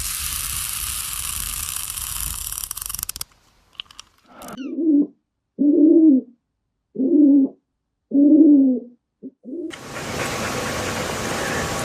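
An animal calling four times: short, low, pitched calls, each under a second, spaced evenly about a second and a half apart. They follow a few seconds of steady noise that cuts off suddenly.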